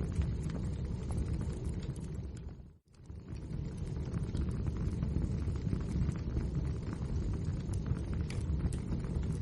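Wood fire burning: a steady low roar with many small crackles and pops. About three seconds in, it fades out briefly and comes back.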